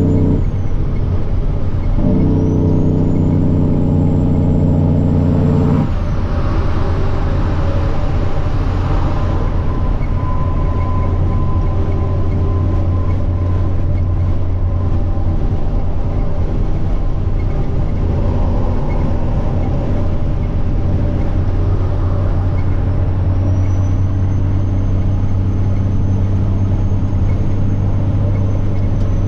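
Semi truck diesel engine droning steadily under way, with the turbocharger's high whistle rising and holding for a few seconds near the start, falling away, then rising again in the last few seconds.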